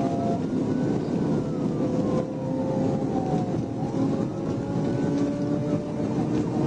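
Patrol car siren wailing, rising and falling in pitch about twice, over the steady engine, tyre and wind noise of the cruiser driving at high speed, heard from inside the car.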